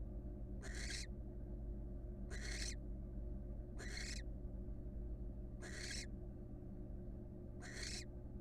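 Barn owl giving short, rasping hiss calls, five in all, one about every second and a half to two seconds, over a steady low electrical hum.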